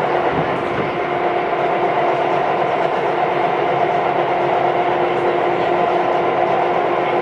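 Tobu 9000 series electric train running at speed: a continuous rumble of wheels on rail, with a steady hum at two pitches. The upper pitch grows stronger about a second in.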